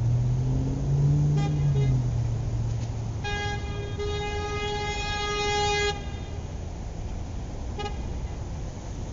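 Toy car's electronic horn sounding: a short toot, then one long steady toot of about two and a half seconds, and a brief toot near the end. Under the first toot a low hum rises a little in pitch and fades.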